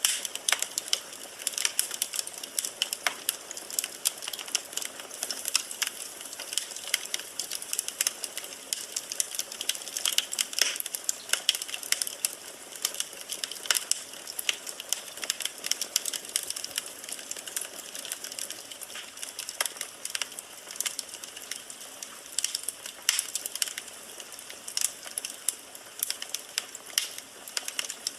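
Firewood burning in a fireplace, crackling and popping steadily with many irregular sharp snaps over a soft hiss.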